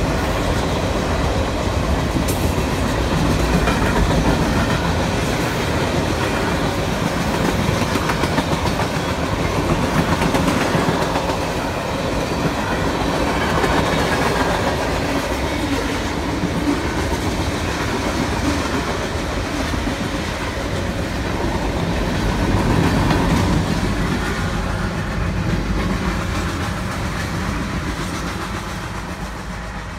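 Freight cars of a fast mixed freight train rolling past, wheels clacking over the rails in a steady rumble, heard from inside a car. The sound fades over the last few seconds as the end of the train goes by.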